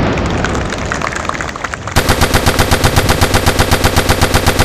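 The fading roar of a loud blast, then, about two seconds in, a sustained burst of rapid automatic gunfire at around eight or nine shots a second that stops abruptly. The sudden starts and stops suggest dubbed-in battle sound effects, since no weapon is being fired.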